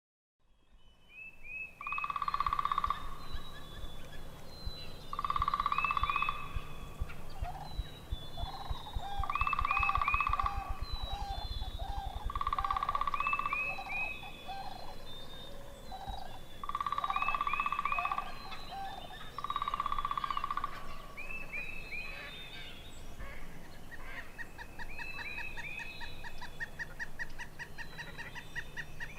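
Birds calling: a long call about every three to four seconds, with short quick notes in between and a faster chatter building near the end.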